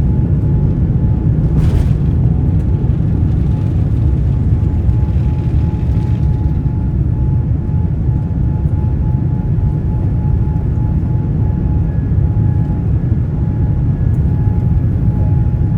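Boeing 787-9 jet airliner noise heard from on board: a steady low rumble with a faint constant whine above it, and a brief hiss a couple of seconds in.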